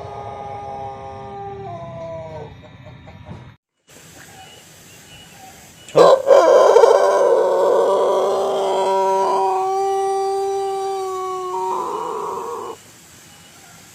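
Pelung roosters crowing: the end of one long, drawn-out crow falls away in the first two seconds or so. After a short break a second, loud crow starts harshly about six seconds in and is held on one steady pitch for about six seconds before dropping off.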